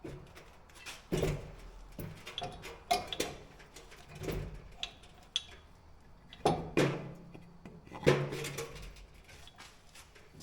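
Irregular metal knocks and clanks, some with a brief ring, as steel parts are handled and worked into place on a skid steer quick-attach.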